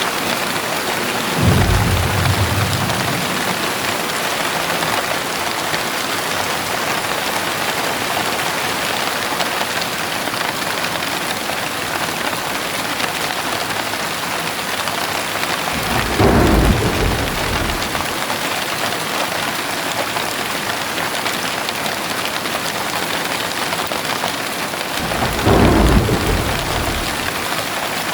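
Heavy rain falling steadily, with three short low rumbles of thunder: about a second and a half in, just past halfway, and near the end.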